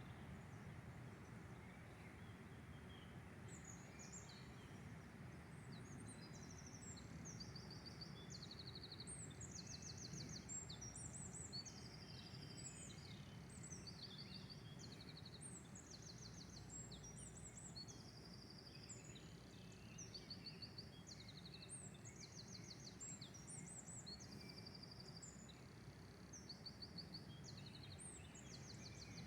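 Faint songbird song: short high trilled phrases repeated over and over, several overlapping, above a low steady background rumble.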